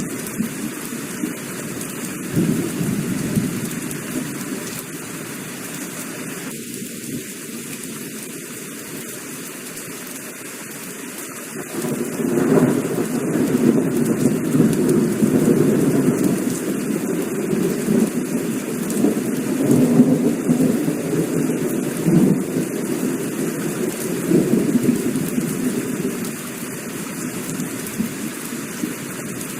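Heavy rain falling steadily, with a long low rumble of thunder that swells about twelve seconds in and slowly dies away.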